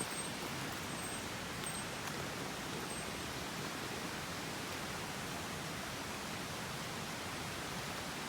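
Mountain stream water rushing steadily, an even rushing noise.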